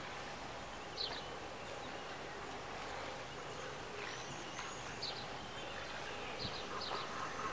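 Steady outdoor background noise with short, high bird chirps: one about a second in and a few more from about five seconds on, plus a brief high gliding call about four seconds in.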